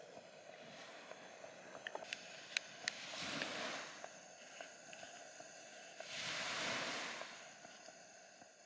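Small waves washing onto the beach, swelling twice, with a few sharp clicks about two to three seconds in.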